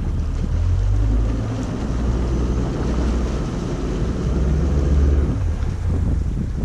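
Wind buffeting the microphone, a loud steady low rumble with a rushing hiss over it.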